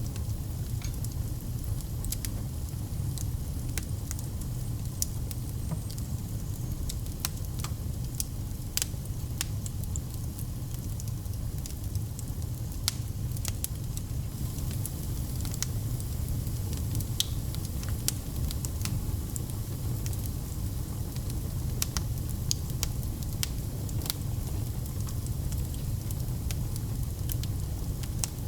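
Fireplace fire crackling, with irregular sharp pops and snaps over a steady low rumble of the flames.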